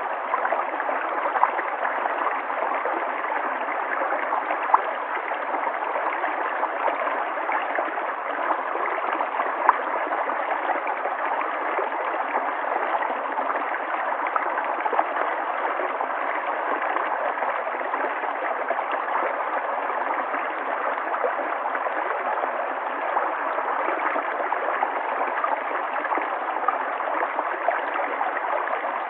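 River water flowing steadily over stones, a continuous rushing and gurgling with small splashes scattered through it.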